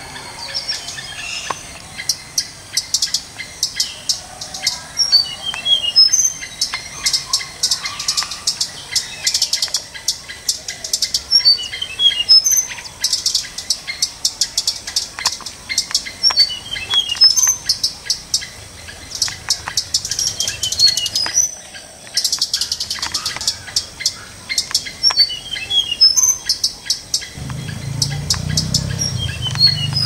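Short, high bird chirps and little falling trills every second or two, over a fast, dense insect clicking that comes and goes in pulses. A low hum comes in near the end.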